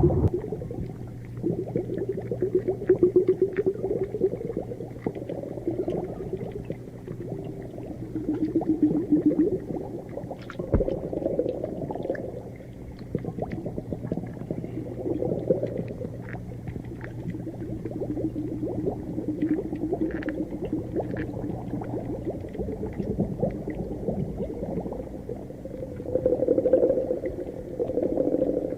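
Underwater ambience: continuous muffled bubbling and gurgling that swells and ebbs every few seconds, peppered with small clicks and crackles, over a low steady hum that stops about three-quarters of the way through.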